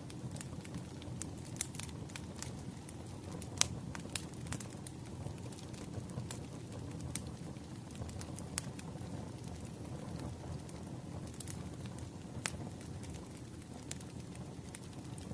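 Wood fire crackling: a steady low rush with irregular sharp pops and snaps, one louder snap a few seconds in.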